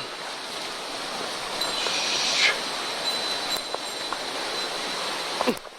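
Rushing water of a swollen mountain stream, running high after heavy rain, as a steady hiss, with a brief louder splash or rush about two seconds in.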